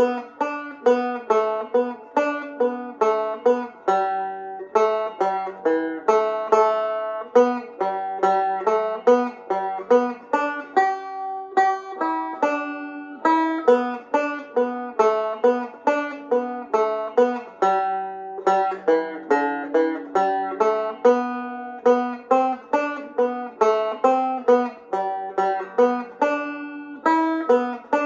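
Irish tenor banjo played solo, picking a reel in G at a slow tempo, one note at a time, each note with a sharp attack that quickly fades.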